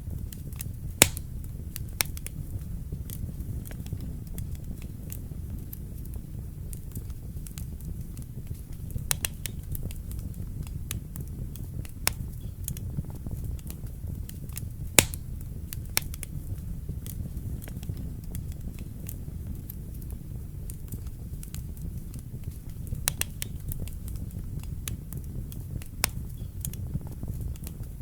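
Wood fire in a fireplace crackling over a steady low rumble, with scattered sharp pops. The loudest pops come about a second in and about halfway through.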